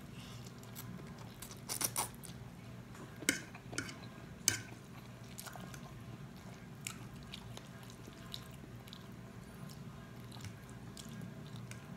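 Close-up eating sounds of a man chewing spicy noodles: wet mouth smacks and clicks, loudest from about two to four and a half seconds in. Later come a few faint ticks of a metal fork against the plate.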